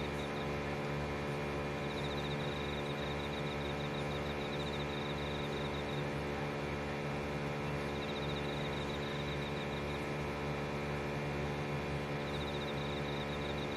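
Steady electrical hum, with an insect chirping in short high trills three or four times.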